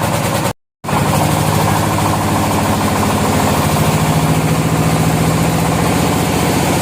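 An engine running steadily at an even speed, cut off to silence for a moment about half a second in and then running on as before.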